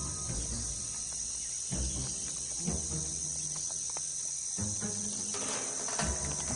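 Insects trilling steadily in a high, unbroken band, over low background music.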